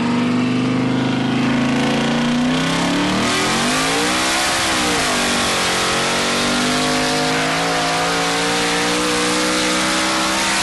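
Twin-turbocharged 427 Dart-block LSX V8 in a Cadillac Escalade at full throttle on a drag pass, heard from inside the cabin. The revs climb, peak and drop at a gear change about four to five seconds in, then climb steadily again with rising rush and hiss until the engine cuts off abruptly at the end as the throttle is lifted.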